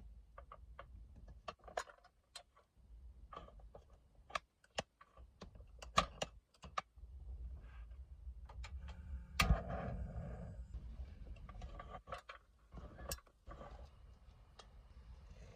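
Irregular sharp clicks and knocks over a low, steady rumble, with one louder thump about halfway through.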